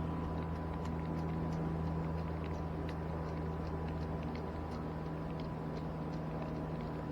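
A boat's motor running with a steady low hum while faint light clicks come and go over it.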